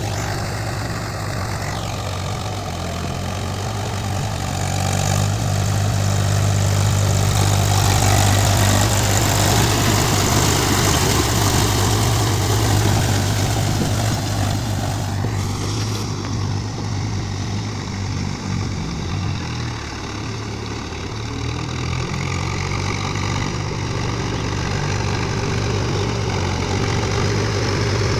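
Swaraj tractor's diesel engine running steadily while ploughing a field. It grows louder about five seconds in and eases off again past the middle.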